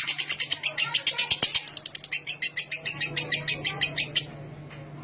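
Lovebird giving its 'ngekek', a long, fast, rasping chatter of about eleven high notes a second. The notes turn slightly slower and uneven midway, then cut off abruptly about four seconds in.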